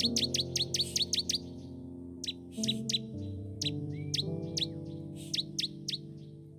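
Soft background music of slowly changing held chords, overlaid with birdsong: runs of quick, high chirps that sweep downward, and one longer whistled note about four seconds in.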